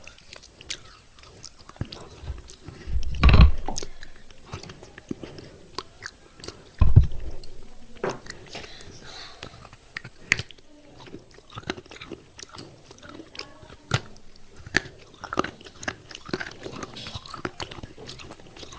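Close-up chewing and crunching of thick pieces of broken clay pot with a red paste: a run of sharp, brittle cracks and crunches, with two loud low thumps about three and seven seconds in.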